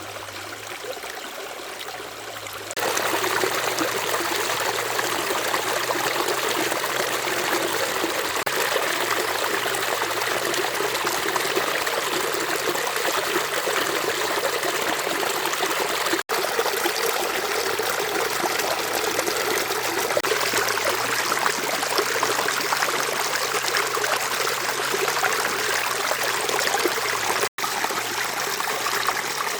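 Running water flowing steadily, as of a stream, getting louder about three seconds in and cutting out for an instant twice.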